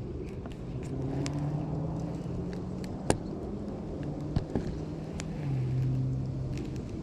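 Wind rumbling on the microphone, with a low engine hum that comes and goes twice, and a few sharp knocks.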